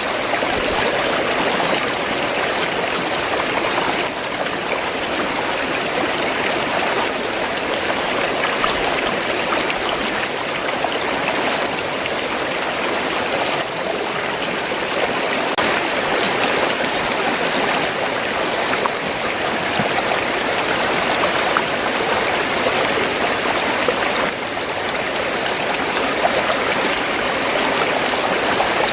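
Fast-flowing stream of water, gurgling steadily over rocks.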